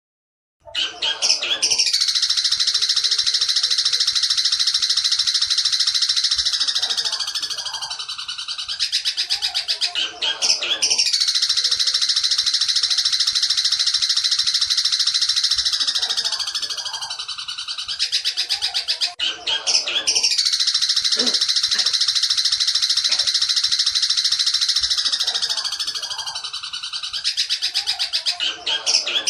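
Long-tailed shrike (cendet) song in the 'petir' style: a fast, dense, shrill rattling trill that starts suddenly about half a second in. The same phrase of roughly nine seconds, each ending in falling notes, comes three times in a row.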